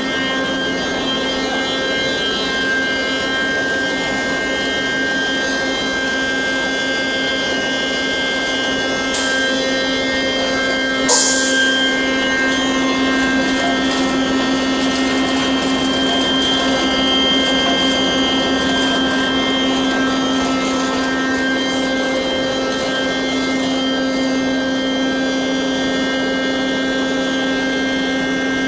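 BSG-300 universal crusher running under way, with its grinding mill, blower and pulse dust collector together giving a steady machine hum with several steady whining tones over a rushing noise. A short sharp burst stands out about eleven seconds in, with a fainter one a little before it.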